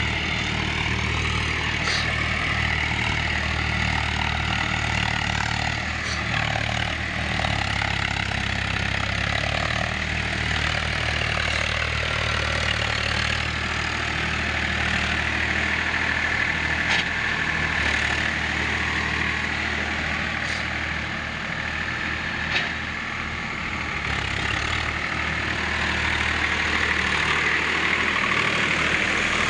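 Tractor diesel engine running steadily, with a few faint clicks and one short knock about three-quarters of the way through.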